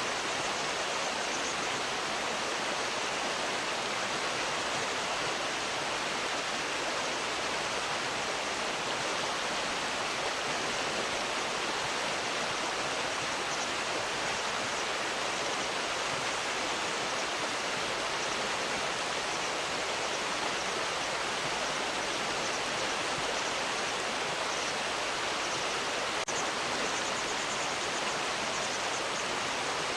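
Steady rush of flowing river water, with a single faint click near the end.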